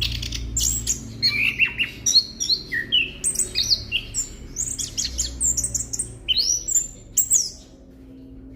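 Chestnut-capped thrush (anis kembang) singing a fast, varied run of whistled notes, sweeps and chirps that stops about a second before the end, over a low steady hum.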